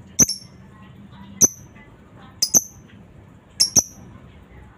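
Lovebird giving short, sharp, high-pitched chirps: two single calls, then two quick pairs, about one a second, over faint softer chatter.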